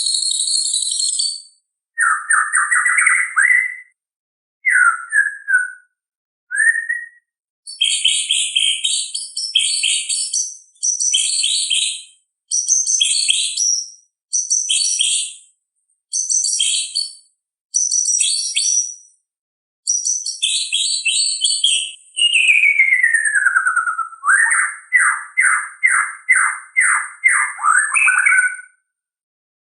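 White-rumped shama (murai batu) singing: a string of loud, varied whistled and chirping phrases, each a second or two long, separated by short silent gaps. Near the end comes a long falling whistle, followed by a quick run of about ten repeated notes.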